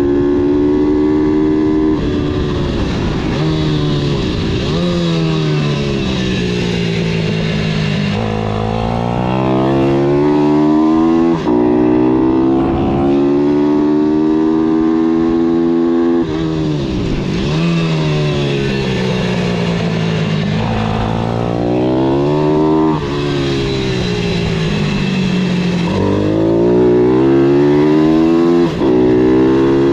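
Pitbike engine revving hard, its pitch climbing through each gear and dropping back at shifts and braking several times.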